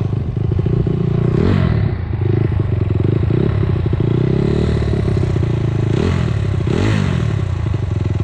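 Dirt bike engine running hard, its pitch rising and falling several times as the throttle is worked.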